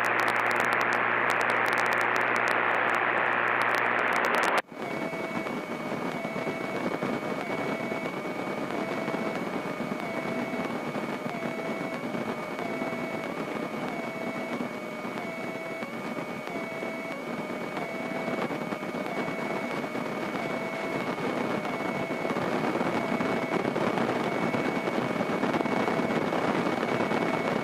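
Grumman light single-engine airplane's piston engine running steadily at taxi power, heard as a noisy drone through the cockpit intercom, with a thin steady high whine and a fainter tone pulsing about once a second. For the first four and a half seconds a louder hiss with a low hum lies over it and cuts off suddenly.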